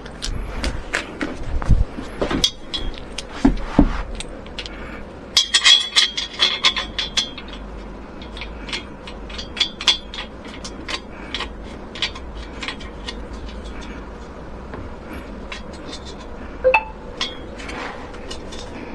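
Irregular clinking and clattering of small hard objects being handled, thickest about five to seven seconds in.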